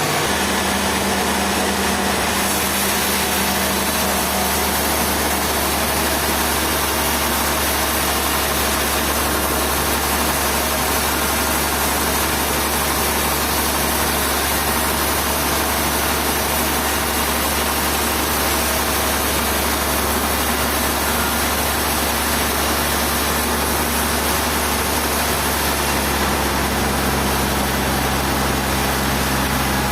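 An engine running steadily at a constant level, its pitch shifting slightly at the start and again near the end.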